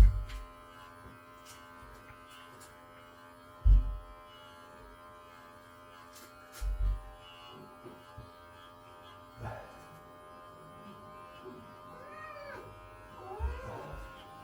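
A cat meows a couple of times near the end, with rising-and-falling calls. Under them runs the steady buzzing hum of electric pet clippers, and there are a few low bumps from handling.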